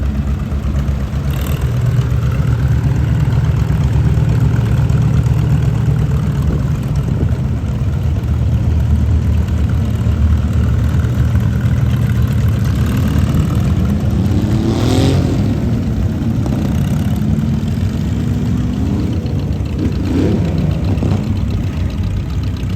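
Tractor engines running steadily as tractors pass by, a deep low drone, with one engine note rising for a couple of seconds about two-thirds of the way through.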